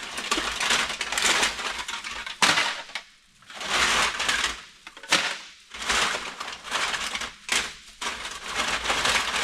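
Empty aluminium drink cans rattling and crunching in several bursts of about a second, with a few sharp knocks among them.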